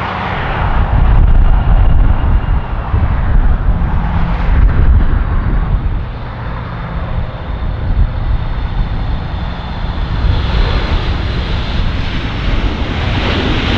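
Jet airliner engines: a heavy rumble, loudest in the first few seconds, with a faint steady high whine later on.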